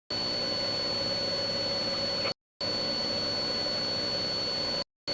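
Steady road and engine roar inside a police cruiser during a pursuit, with a constant thin high whine over it. The audio cuts to dead silence for a moment three times: at the start, about halfway through, and near the end.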